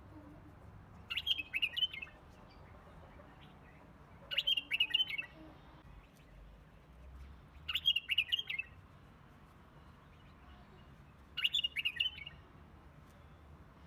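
A songbird singing a short twittering phrase four times, about every three and a half seconds, over a faint low background hum.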